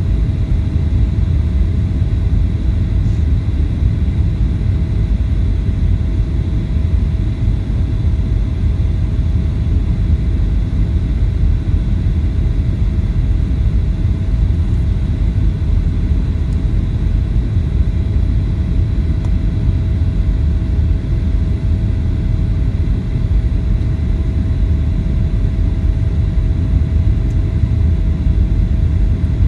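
Steady low roar of a Boeing 737-800's passenger cabin in flight on approach, from the engines and the air rushing past. A faint steady whine runs through it.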